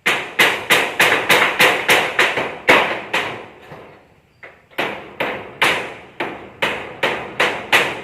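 Hammer blows struck in quick succession, about three a second, each with a short ring; the hammering breaks off a little past the middle, then starts again and keeps going.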